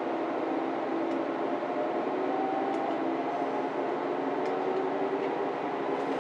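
Diesel railcar running, a steady drone with a constant hum and a few faint clicks.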